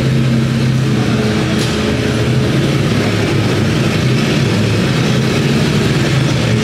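Car engines idling with a steady low rumble that holds at one pitch, with no revving.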